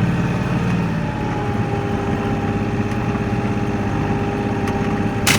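Kioti NX4510 tractor's diesel engine running steadily, with a thin steady whine coming in about a second in and one sharp click near the end.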